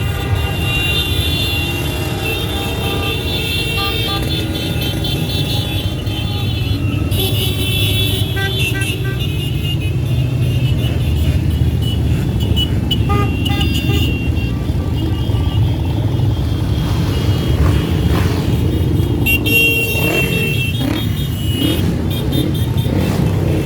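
Many motorcycle engines rumbling steadily as a parade rides past, with horns sounding on and off over the engine noise.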